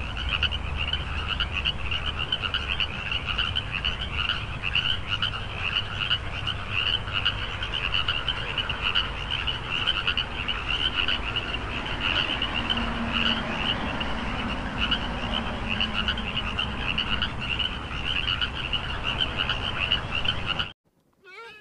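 Frogs croaking in a dense, continuous run of rapid repeated calls that stops abruptly near the end.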